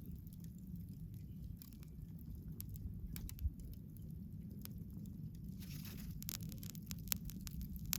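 Wood bonfire burning, crackling and popping with scattered sharp snaps over a steady low rumble. A brief hiss rises about five and a half seconds in, and a single dull thump sounds about three and a half seconds in.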